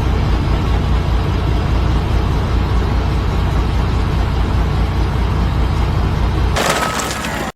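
A heavy engine running steadily with a low rumble, then a burst of hissing about six and a half seconds in.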